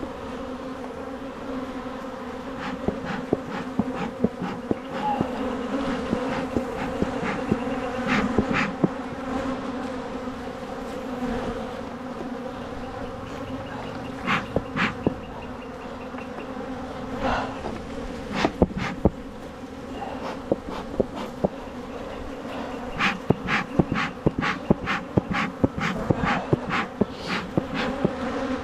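Honeybees buzzing in a steady, dense hum around an open hive, with frequent short sharp clicks over it, most of them in quick succession near the end.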